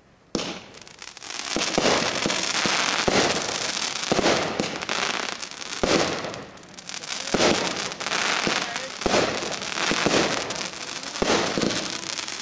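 Backyard fireworks going off: dense crackling with many sharp bangs. It starts suddenly after a brief moment of near quiet.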